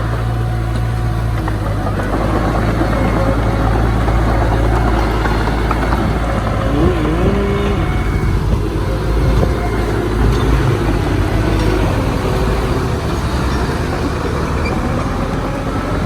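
Diesel engine of heavy earthmoving machinery, a bulldozer or dump truck, running steadily under load, its pitch drifting slightly up near the end.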